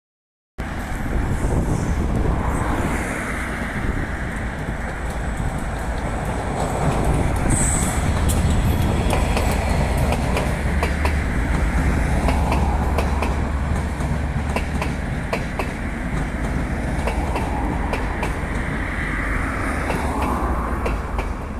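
Passenger train running past on curving track, starting suddenly about half a second in: a steady rumble with the wheels clicking over rail joints, and a brief high wheel squeal about seven seconds in.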